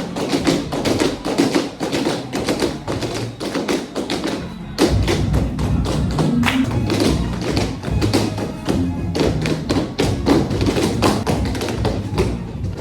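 Tap shoes striking a floor in quick, rhythmic taps, with backing music and a bass line coming in about five seconds in.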